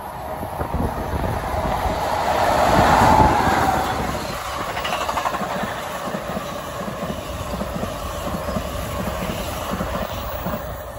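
NJ Transit multilevel commuter train passing close by at reduced speed, its wheels clattering over the rails. The sound builds to its loudest about three seconds in as the train draws level, then holds at a steady rumble while the cars roll past.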